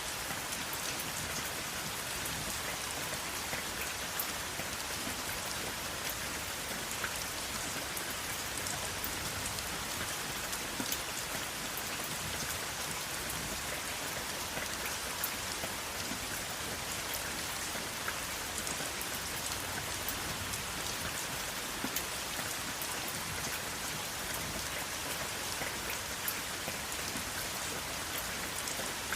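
Steady rain falling: an even hiss with scattered sharper ticks of single drops, no thunder.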